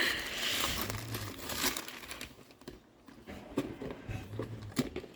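Wrapping paper crinkling and rustling as a birthday present is unwrapped, most busily in the first two seconds, then in scattered quieter crinkles and small clicks.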